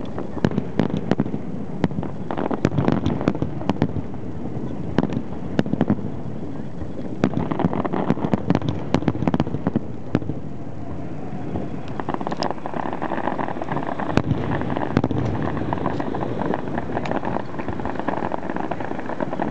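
Aerial fireworks show: a dense, continuous crackle of many small sharp pops and bursts over a steady rumbling haze.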